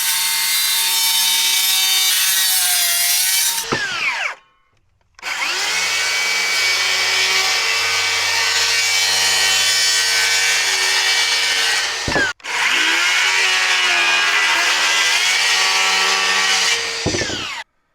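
Electric saw cutting wood in three loud runs with a steady motor whine. It winds down and stops about 4 s in, starts again about a second later, stops and restarts just after 12 s, and winds down to a stop near the end.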